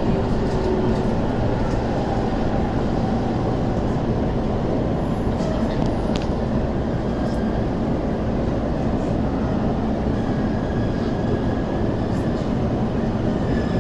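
Steady rumble and running noise of an electric commuter train at a station platform, with no clear rising or falling motor whine.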